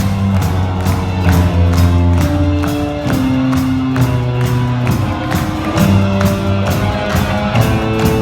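Live band playing a disco song with a steady, even beat of about two hits a second and sustained bass and keyboard notes.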